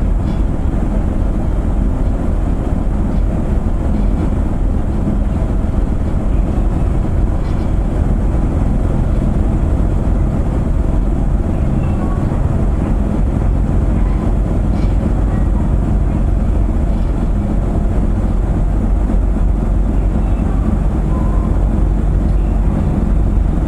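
Steady deep rumble aboard the car ferry Dai-12 Ōsumi as it gets under way, its engines running with no let-up.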